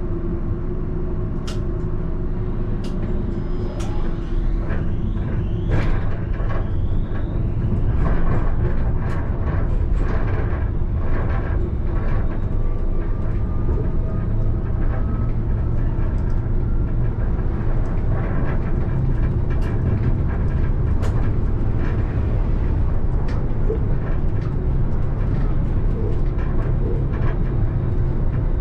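Alstom Citadis tram running, heard from the driver's cab: a steady low rumble of wheels on rail with scattered clicks and knocks. A faint whine rises about halfway through.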